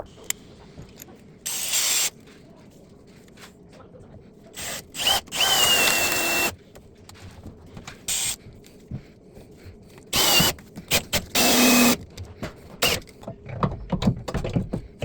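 Power drill running in several short bursts with a high motor whine, the longest lasting about two seconds, with tool knocks and clicks in between.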